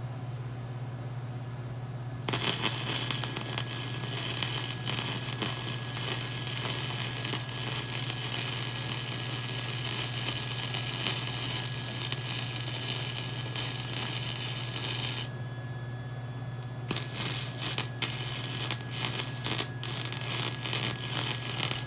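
Gasless flux-core wire-feed welder arc crackling and sizzling steadily for about thirteen seconds, then after a short pause a run of brief stop-start bursts, short tack-style welds. A steady low hum runs underneath.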